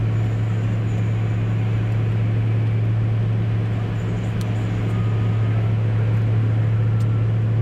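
Steady low drone and rumble of a car heard from inside the cabin: engine and road noise.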